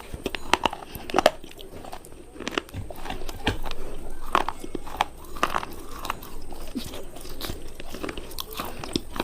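Close-up biting and chewing of hard, brittle cubes: repeated sharp crunches at irregular intervals, with quieter chewing between.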